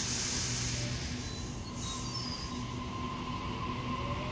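Double-deck electric passenger train moving along a station platform. A loud hiss comes near the start and again about two seconds in, a steady high squeal sets in from about halfway, and a faint rising whine comes near the end.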